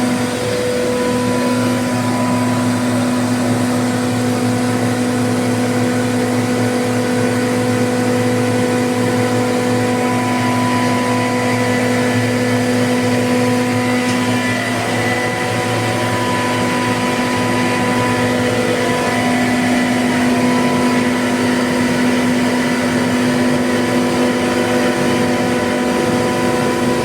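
A 15 kW (20 HP) base-mounted electric screw air compressor running steadily, a constant machine hum with a whine.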